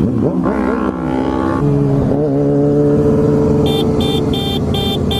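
Motorcycle engine revving up and down, then running at a steady speed. Near the end, a quick series of short high-pitched beeps, about three a second.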